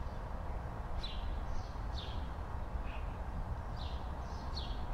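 Outdoor ambience: a small bird giving short chirps that fall in pitch, about once a second, over a steady low background rumble.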